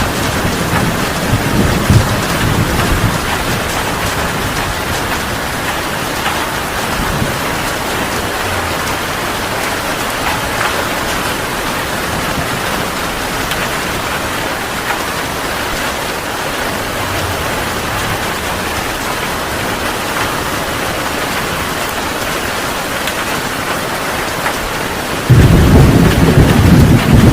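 Heavy rain falling steadily in a thunderstorm. Over the first few seconds a low thunder rumble fades away. Near the end a loud thunderclap starts suddenly and rumbles on.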